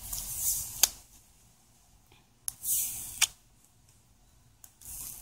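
Tempered glass screen protector being lifted and handled on a smartphone screen to reposition it. Twice, a short high hissing scrape ends in a sharp click.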